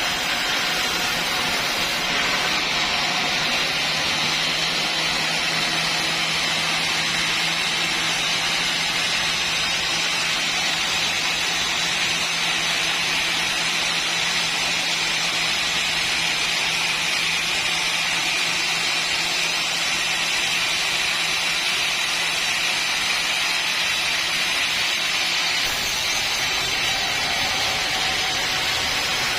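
Sawmill running with a steady machine whir. A low steady hum joins about two seconds in and stops a few seconds before the end.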